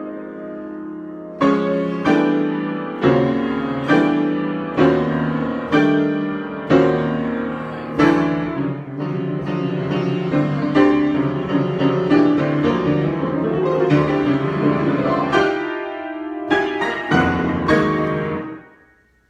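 Solo piano improvisation: chords struck about once a second in a steady pulse, closing with a few last chords near the end that ring and then die away.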